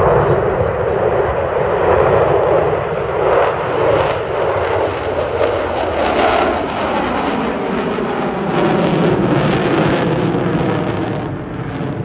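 Loud jet aircraft engine noise from a fast military jet passing in a display, steady and dense, easing off near the end.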